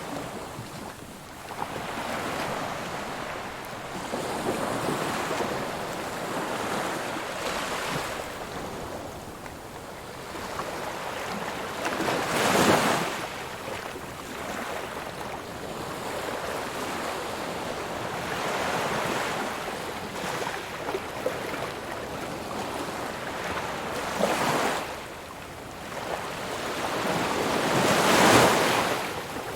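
Ocean waves washing on a shore in a steady hiss, with louder surges as waves break, the largest about twelve seconds in and again near the end.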